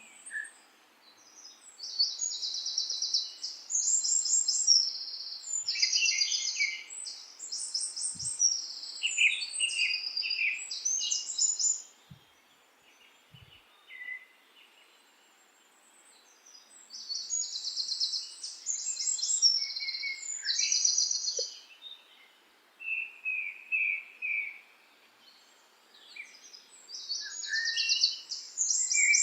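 Songbirds singing in bouts of rapid, high trilled notes with lower chirps mixed in, pausing twice, over a faint steady background hiss.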